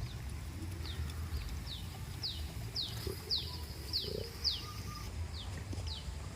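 A bird calling: a run of about ten short, high, downward-sweeping whistled notes, about two a second, swelling and then fading, over a low steady rumble.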